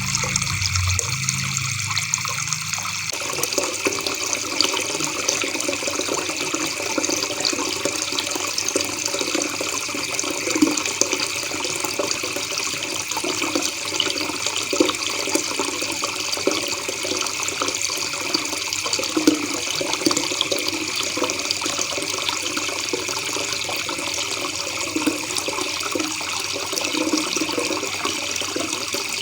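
River water babbling and trickling steadily over stones, with a low rumble that gives way to a fuller gurgle about three seconds in.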